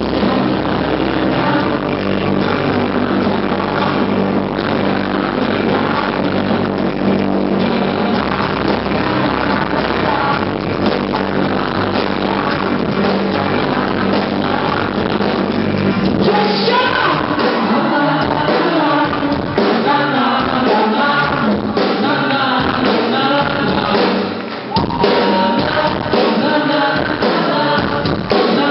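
Live rock-pop concert music: a band plays a dense, sustained passage for the first half. From about halfway, a sung vocal line comes in over a pulsing beat.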